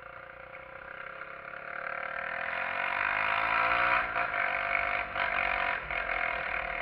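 A SYM XS125-K's 125 cc single-cylinder four-stroke engine pulling the motorcycle away, its note rising and getting louder for the first three or four seconds, then holding steady with brief drops about four and six seconds in.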